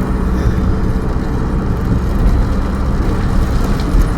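Steady engine and road noise inside a moving vehicle's cabin, a continuous low rumble with a faint steady drone.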